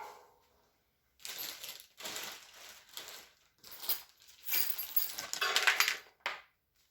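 Small metal assembly hardware (screws, bolts and tools) clinking and rattling in several bursts as it is handled, after a short knock at the start.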